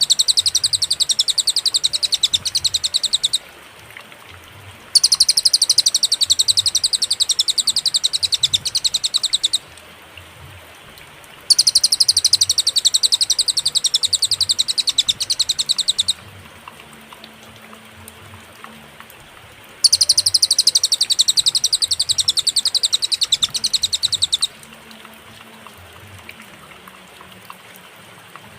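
A cililin songbird singing a rapid, rattling trill of very fast repeated high notes. The trill comes in four bursts of about four to five seconds each, with clear pauses between them.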